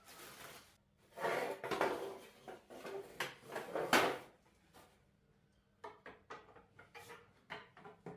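Hand work on parts and tools: for about three seconds scraping and rubbing strokes, then after a pause a quick run of light clicks and knocks.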